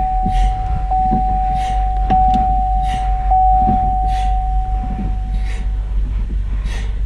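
Brake pedal of a 2008 Buick Enclave being pumped repeatedly to seat freshly fitted rear pads, each stroke giving a short hiss. Under it a car's steady electronic warning tone, ticking about once a second, runs on and fades out about six seconds in, over a low rumble.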